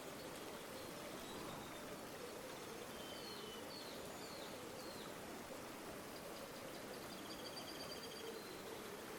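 River water flowing steadily. Faint bird calls over it: a few short chirps about three seconds in, and a quick trill near the end.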